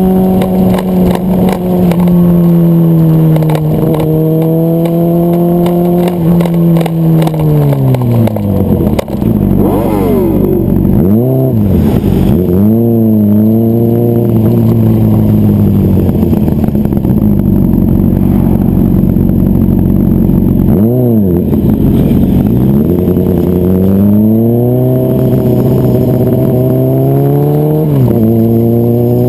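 Motorcycle engine of the riding bike, heard up close: it holds steady, then the revs fall away as it slows. Next come several quick rises and falls in revs, and toward the end the revs climb again with a dip near the end, as at a gear change.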